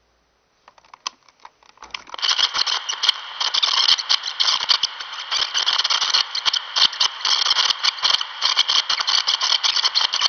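Continuous dense rattling and scraping made of many rapid clicks, starting about two seconds in after a few scattered clicks.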